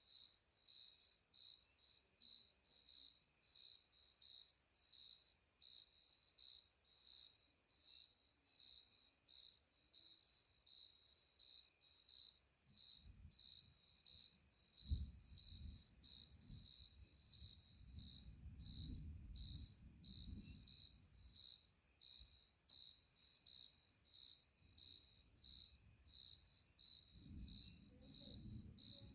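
An insect chirps steadily, about two high chirps a second. Distant thunder rumbles low beneath it, starting a little under halfway through with a sharper crack in the middle, and rumbles again near the end.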